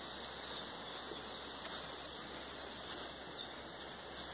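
Birds calling: several short, high, falling notes scattered over a steady outdoor hiss.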